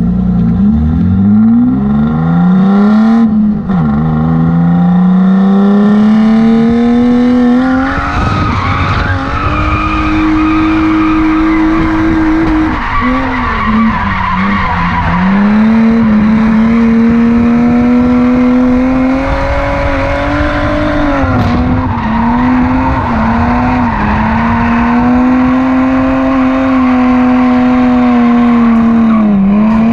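Car engine revved hard and held at high revs through a drift, its note climbing over the first few seconds and dipping briefly about four and fourteen seconds in, with tyres skidding and squealing under it.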